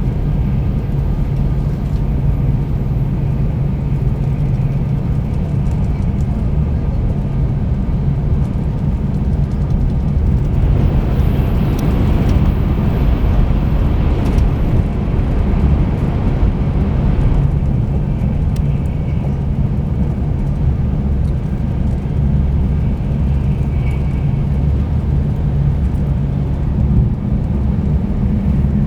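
Cabin running noise of a 300 series Shinkansen train at speed, heard from inside the Green car: a steady low rumble with a few steady hum tones. A louder rushing hiss swells for about seven seconds around the middle.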